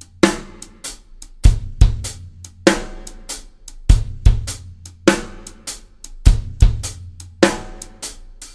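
Drum kit playing a half-time shuffle groove. A bass drum double hit on beat one and the shuffle 'e' of one, a snare backbeat on three, and a shuffled hi-hat figure throughout. It repeats about every two and a half seconds and stops near the end.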